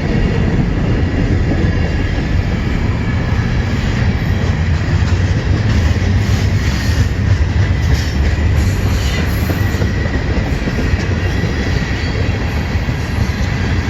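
Freight train rolling past close by: a loud, steady rumble of cars and wheels on the rails.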